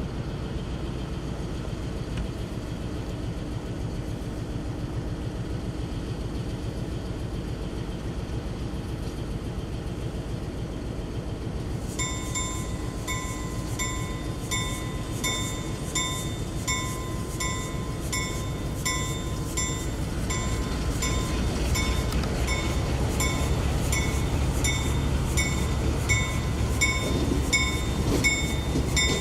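A diesel train rumbles steadily. About twelve seconds in, a bell starts ringing evenly, about one and a half strokes a second. The train's rumble grows louder in the second half as it approaches.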